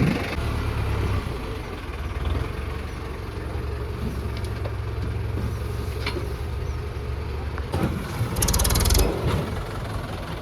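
Engine running steadily at idle with a low rumble, and a short rapid rattle about eight and a half seconds in.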